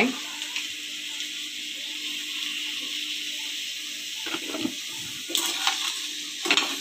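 Crab masala sizzling in hot oil in a kadai, a steady frying hiss. From about four seconds in, a steel spatula stirs and scrapes through the crab pieces.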